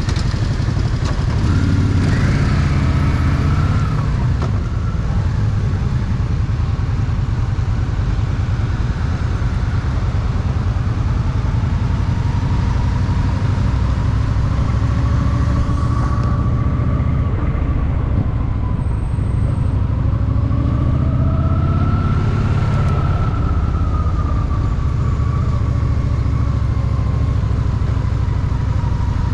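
Honda Shadow VT750's V-twin engine running with a steady low rumble, joined by a fainter whine that rises and falls in pitch.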